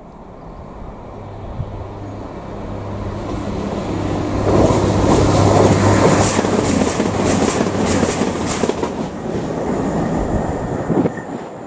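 CrossCountry Voyager diesel multiple unit passing through a station without stopping. Its engine hum and wheel clatter build up, are loudest around the middle as it goes by, then fade away.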